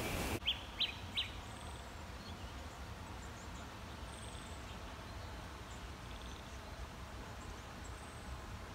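Bird chirping three short times in quick succession, followed by a few faint, high calls from birds further off over a quiet, steady background.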